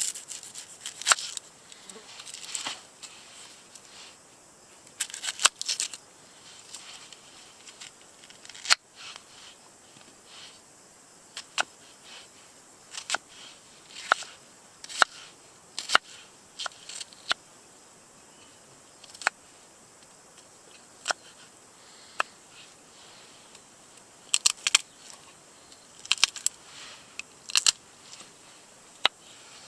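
Irregular sharp clicks and taps, some single and some in quick clusters, over a faint steady hiss.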